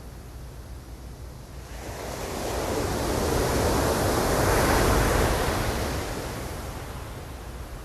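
Ocean surf: one wave swells in about two seconds in, is loudest around the middle, then washes back out, over a steady low rumble.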